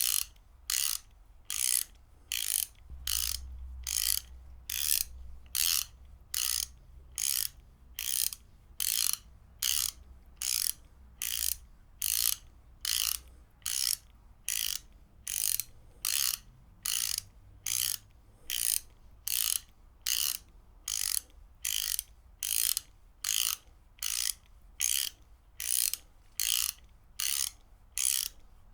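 Ratchet wrench being worked back and forth, its pawl clicking over the gear teeth in short bursts of rapid clicks, about three bursts every two seconds, one for each stroke.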